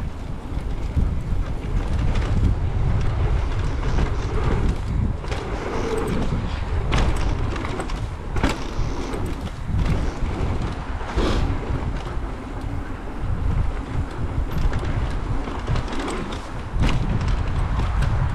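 Wind rushing over the microphone and tyres rolling over dirt as a mountain bike is ridden fast down a trail. Many sharp knocks and rattles from the bike are scattered through it.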